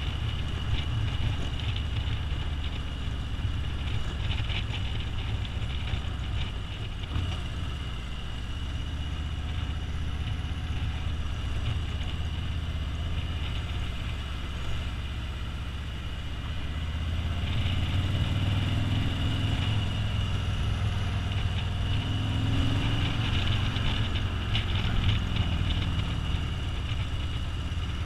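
Motorcycle engine running at road speed while riding, with a steady haze of wind and road noise and a thin steady high whine. It grows louder from about two-thirds of the way through.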